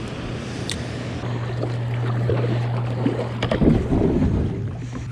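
Wind on the microphone and water moving around a kayak, over a steady low hum. There are a few short clicks, and a stretch of louder rustling and knocking about three and a half seconds in.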